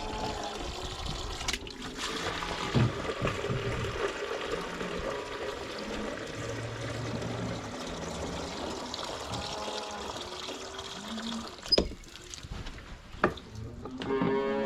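Water pouring steadily for about eleven seconds, then stopping. A few sharp clicks and knocks follow near the end.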